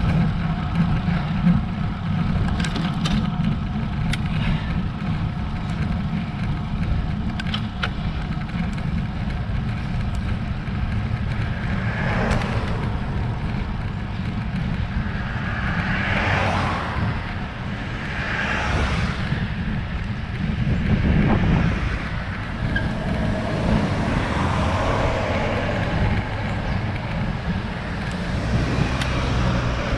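Steady wind and road rumble on a road bike's action camera during a climb. Motor vehicles pass several times around the middle, each swelling and fading.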